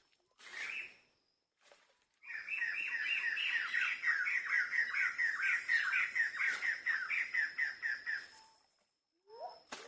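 A bird calling: a fast run of short, repeated falling notes, about four or five a second, lasting around six seconds.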